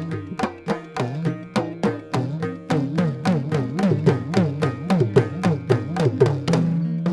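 Indian classical dance accompaniment led by a hand drum played in quick, even strokes, about three a second, its deep bass notes sliding up and down in pitch. Near the end a held low note comes in under the drumming.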